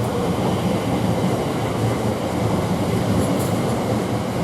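Class 345 electric multiple unit departing: a steady rumble of wheels and running gear on the track.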